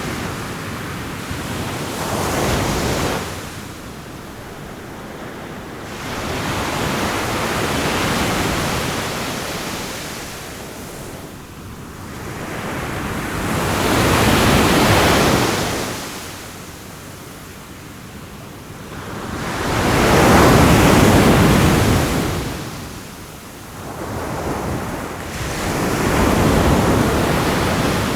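Ocean waves breaking on the shore, each surge swelling and falling back about every six seconds.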